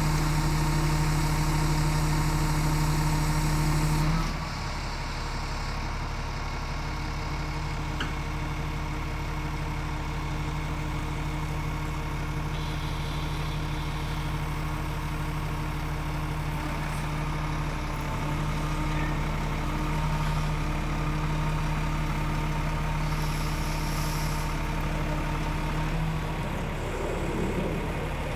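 Scania G450 truck's 13-litre inline-six diesel idling steadily. The sound drops a little in level about four seconds in and then runs on evenly.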